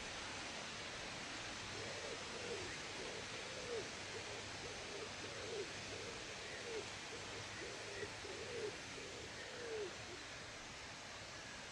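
A bird giving a run of short, low calls, each rising and then falling in pitch, roughly every half second to second from about two seconds in until about ten seconds in, over a steady hiss.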